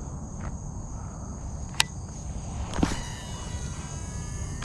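Steady chirring of insects such as crickets in the background. About three seconds in comes a swish, then a whine of several tones falling in pitch, fitting a cast with a Shimano SLX DC baitcasting reel, whose digital brake whines as the spool spins. A single sharp click comes a little before the cast.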